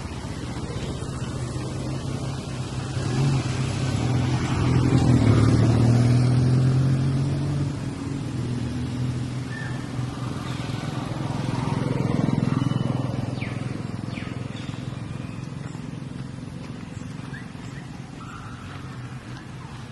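A motor vehicle's engine running and passing, growing louder about a third of the way in, easing, swelling again a little later, then fading away.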